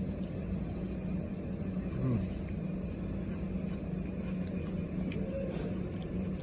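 Steady low machine hum, like an idling engine, with a few faint clicks and a brief low voice sound about two seconds in.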